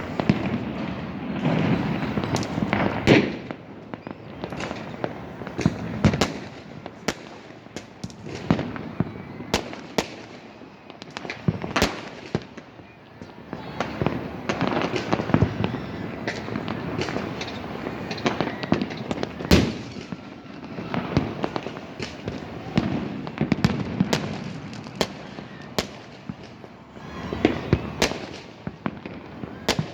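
Many fireworks and firecrackers going off at once: a continuous crackle and rumble of bursts, with sharp bangs every second or two, the loudest about 3 s in and again just before 20 s.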